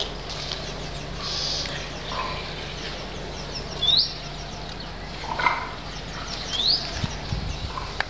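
Two short, high bird chirps, each sweeping upward, about three seconds apart, over a steady low background hum.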